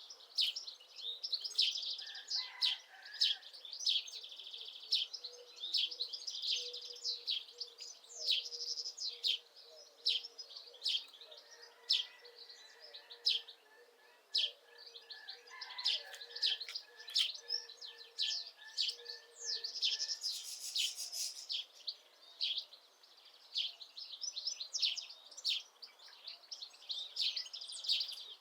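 Songbirds singing in a dense chorus of rapid chirps and trills, with a run of evenly repeated lower notes from another bird midway.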